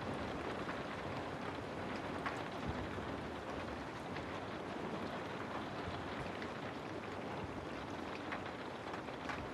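Steady rainfall: an even hiss of rain, with now and then a single drop landing with a sharper tap.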